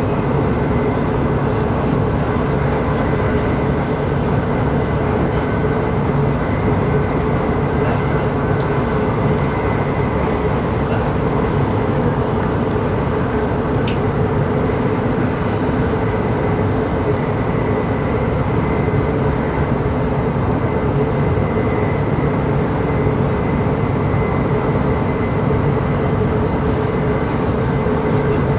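Steady running noise inside a CRH6A electric multiple unit: a constant rumble of wheels on rail with a steady electrical hum, and a single click about halfway through.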